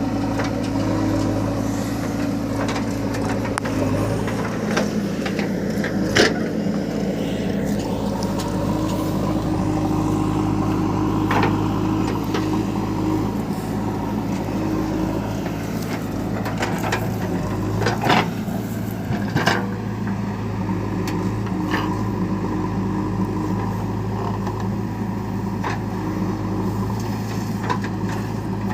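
Heavy diesel machinery engine running steadily, with a few sharp knocks now and then.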